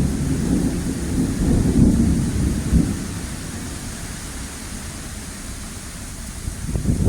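Severe thunderstorm: heavy rain hissing steadily under a low, uneven rumble that is loudest for the first few seconds, eases, and swells again near the end.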